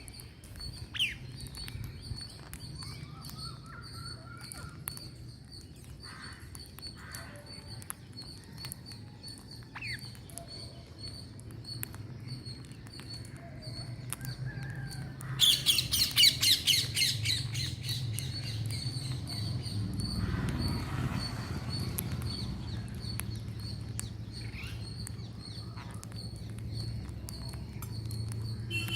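Green parrots calling: scattered short calls, then a loud run of rapid, harsh screeches about halfway through. A steady high-pitched pulsing and a low hum carry on underneath.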